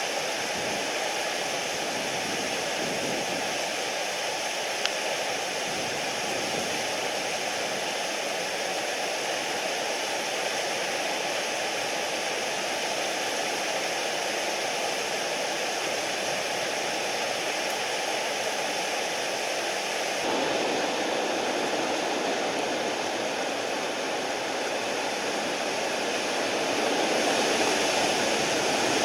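Mountain stream rushing, a steady hiss of running water. It shifts abruptly and gets a little louder about twenty seconds in, and swells again near the end.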